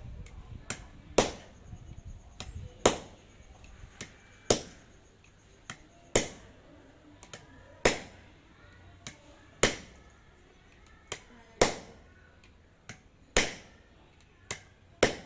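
Hammer blows in a steady rhythm, a heavy strike about every one and a half to two seconds, with lighter taps in between.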